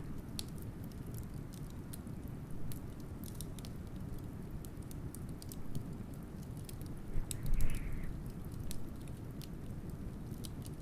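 Wood fire crackling with irregular sharp pops over a steady low rumble of blizzard wind, with one louder pop about seven and a half seconds in.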